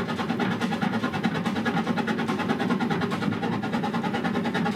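Narrow-gauge steam locomotive working hard, its exhaust beating rapidly and evenly at about nine or ten beats a second.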